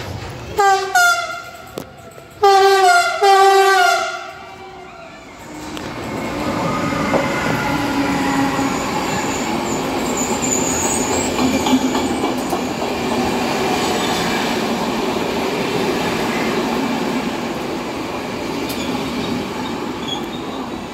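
An electric locomotive's horn sounds a short blast and then two longer blasts as it approaches. Then the passenger coaches roll past close by, with a loud, steady rumble of wheels on the rails.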